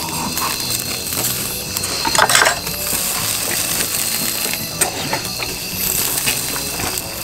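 Close-miked chewing of a mouthful of grilled beef rib-eye cap: wet, clicky mouth sounds, with a louder burst about two seconds in.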